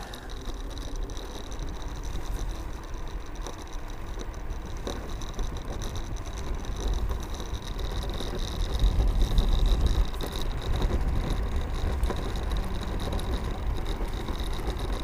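Mercane electric kick scooter being ridden along a road: wind rumbling on the microphone, loudest about eight to ten seconds in, over road noise and a steady high whine from the motor.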